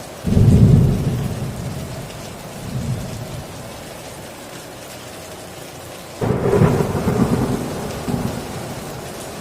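Steady heavy rain with two claps of thunder. One breaks right at the start and the other about six seconds in, each rumbling low and dying away over a couple of seconds.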